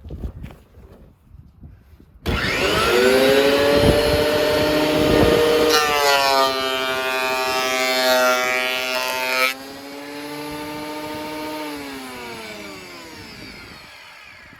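Electric thickness planer with freshly sharpened reversible knives switching on suddenly and spinning up to a loud whine. It runs a test pass of rough-sawn cedar for several seconds, then drops much quieter about nine seconds in and winds down with a falling pitch near the end.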